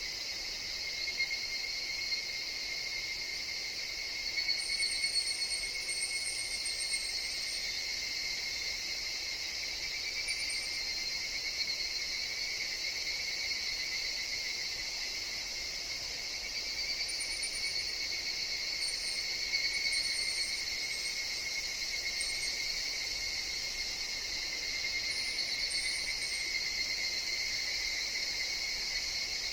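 Chorus of higurashi cicadas and other insects: a steady, dense, high ringing drone, with short very high chirps from another caller now and then.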